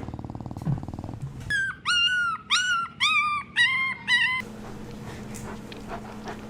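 Puppy whimpering: about six short, high-pitched whines in quick succession, each rising and falling in pitch, after a second or so of rapid panting.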